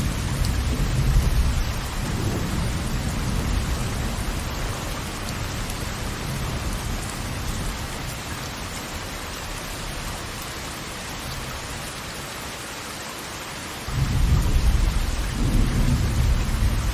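Steady rushing hiss of falling water with a deep rolling rumble. The rumble fades over the first couple of seconds and swells back in suddenly near the end.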